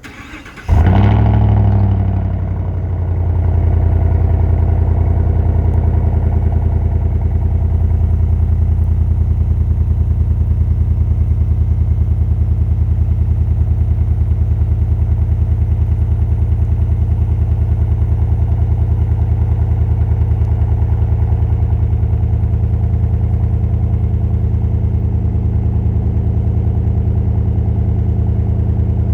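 2019 Chevrolet Silverado's 5.3-litre V8 cold-starting through a chambered Powerstick muffler: it catches under a second in with a loud flare, dips, then settles into a steady, deep idle. The exhaust is loud on a cold start.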